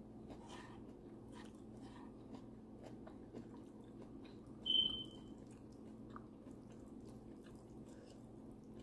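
Close-up chewing and wet mouth clicks of someone eating fish and rice by hand, faint over a steady low hum. About halfway through, a short high-pitched beep is the loudest sound.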